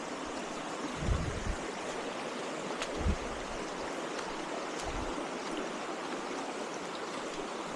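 Steady rushing of a stream or waterfall, with a few low bumps of wind on the microphone about a second, three seconds and five seconds in.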